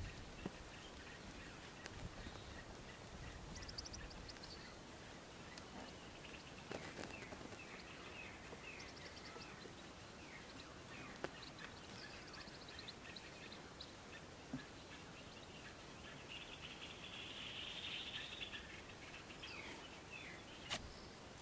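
Quiet outdoor ambience with scattered faint bird chirps and short calls, and a denser burst of chirping about three-quarters of the way through.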